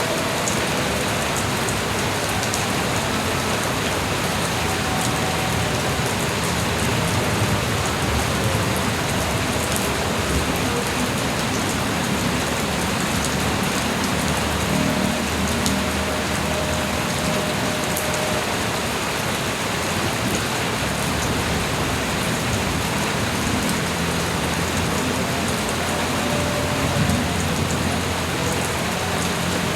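Light rain falling steadily, an even hiss with individual drops ticking here and there.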